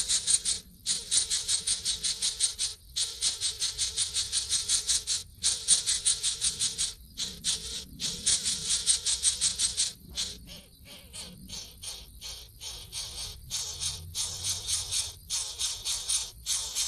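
High-pitched rapid chattering calls of birds: fast, even pulses, about eight or nine a second, in runs of one to three seconds with short breaks, fainter and sparser around the middle.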